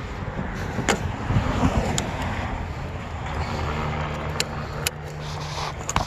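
Truck driving: a steady engine and road rumble with a low hum that strengthens in the middle, and a few sharp clicks and rattles.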